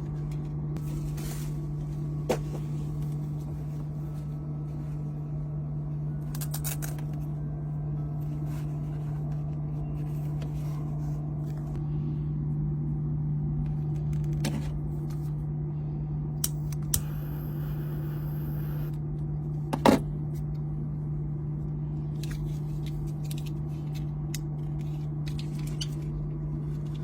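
A steady low electrical hum with a few scattered clicks and knocks, the loudest about twenty seconds in, and a brief hiss about seventeen seconds in.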